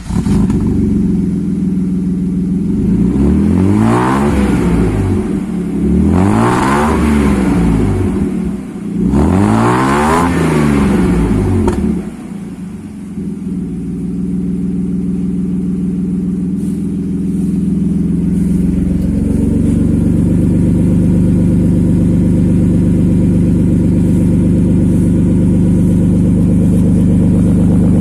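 BMW E36 320i's M50 straight-six engine breathing through a Sebring aftermarket racing exhaust, blipped three times in a row, each rev rising and falling. It then settles into a steady idle, which picks up slightly about two-thirds of the way through.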